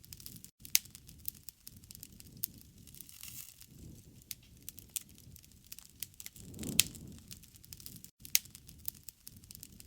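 Wood campfire crackling: a steady stream of small snaps with sharp pops about a second in and twice near 7 to 8 seconds, over a soft low rush of flame that swells around 7 seconds.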